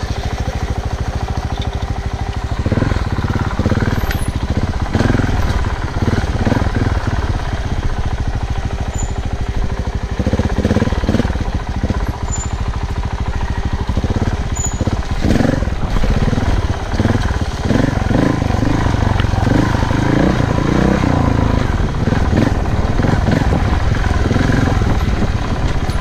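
Off-road motorcycle being ridden, its engine note surging up and down irregularly over a continuous low rumble.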